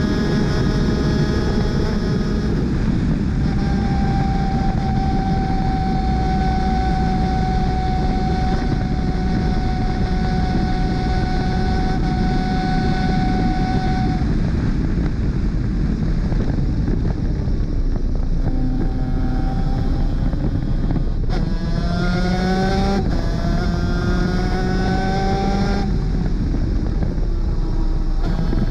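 Superkart 250 two-stroke engine at racing speed: the engine note holds high and nearly steady for about ten seconds at full throttle, then drops. It climbs again in several rising pulls, each cut off sharply by a quick gear shift.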